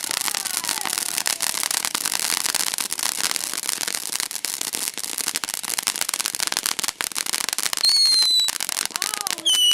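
Consumer fireworks going off: a dense, continuous crackle, with a high whistle about eight seconds in and another starting near the end.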